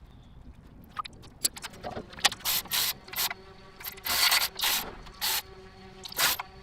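Irregular clicking and clatter of mechanic's hand tools, a ratchet among them, broken by several short, loud rasping bursts.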